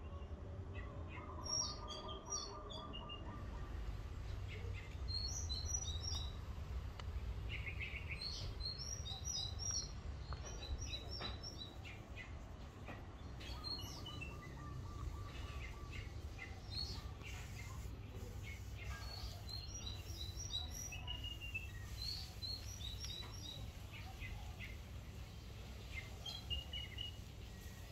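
Small birds chirping and twittering in short, repeated high phrases, over a steady low background rumble.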